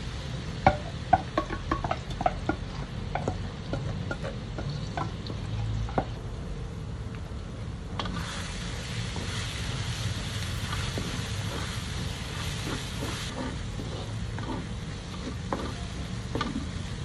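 Minced aromatics frying in oil in an aluminium wok, with a wooden spatula scraping and knocking against the metal in a run of sharp clicks over the first six seconds. About eight seconds in, a louder, brighter sizzle starts and lasts about five seconds, with a low steady rumble underneath throughout.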